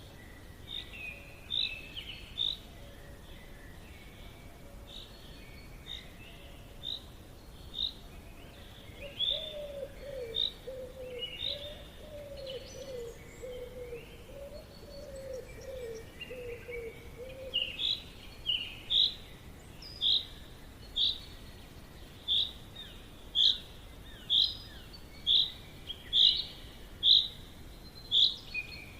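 Birds calling in a forest: one bird repeats a short, sharp high note about once a second, louder and more regular in the second half. A lower warbling call runs through the middle, over a faint steady background hiss.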